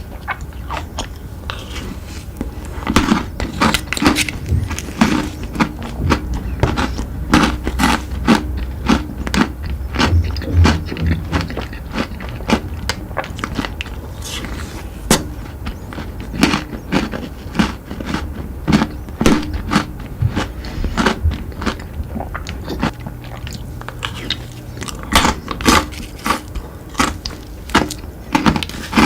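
Close-up biting and crunchy chewing of chocolate sweets: a steady run of irregular crisp cracks and crunches, several a second at their busiest.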